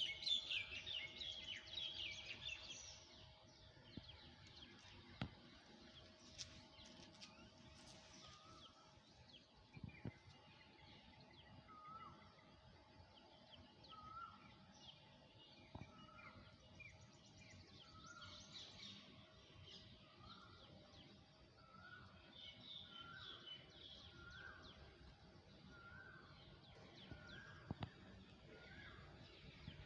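Faint birdsong: a burst of high chirping, then a single bird repeating a short call about once a second.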